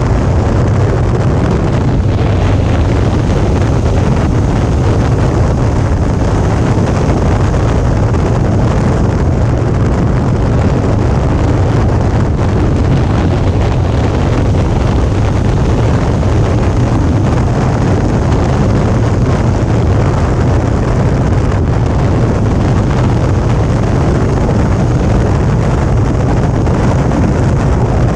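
Suzuki V-Strom 650's V-twin engine running steadily under way, with steady wind and road noise on the microphone.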